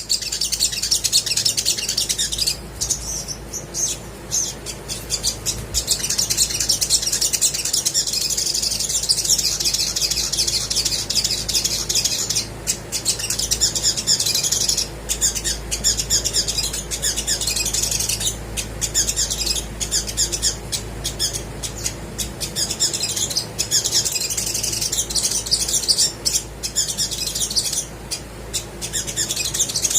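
Olive-backed sunbird singing non-stop in full song: rapid, high-pitched chattering and twittering trills with only brief gaps.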